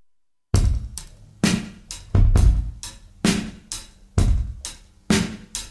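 Drum-kit beat that starts about half a second in, with bass drum and snare hits and cymbals in a steady rhythm, as a music track.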